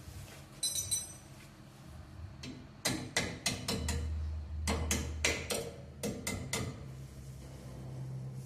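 Metal tapping: a hammer striking a brake pad retaining spring about nine times in quick succession to open it up and take its bend out, after a brief metallic clink.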